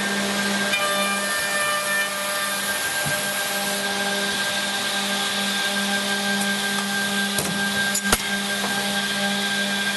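OTT Tornado edgebanding machine running with a steady motor hum and hiss, with two sharp clacks about seven and eight seconds in.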